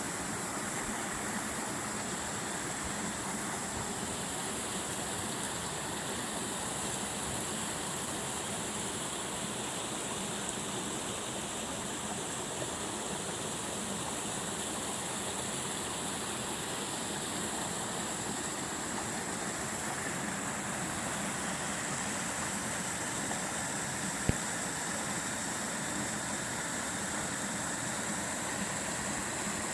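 Waterfall rushing: a steady, even roar of falling water, with a few brief clicks about a quarter of the way in and once more near the end.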